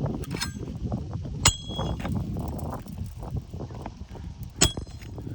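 Hammer striking a steel snake bar worked under asphalt shingles to catch a roofing nail: two sharp metallic strikes that ring, about three seconds apart, with a lighter clink before the first, over scraping and rustling of the shingles.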